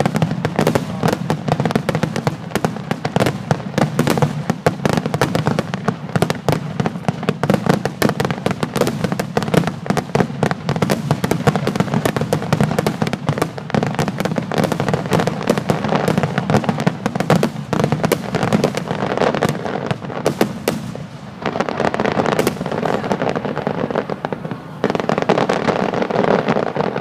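Fireworks display in a dense barrage: rapid, overlapping bangs and crackling bursts that thin out briefly twice in the last third.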